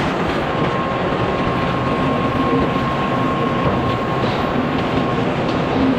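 Sawmill machinery running steadily while milling red oak, a continuous loud mechanical noise with a faint steady whine.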